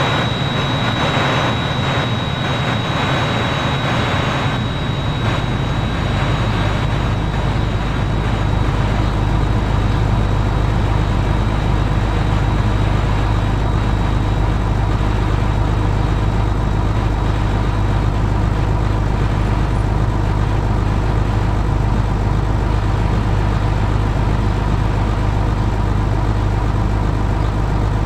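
Steady, loud low engine drone with road or track noise, holding an even pitch without revving; a thin high whine fades out over the first half.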